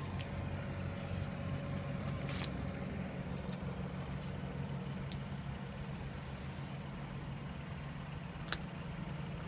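Heavy diesel truck engine idling steadily, a low even drone, with a few faint light clicks over it.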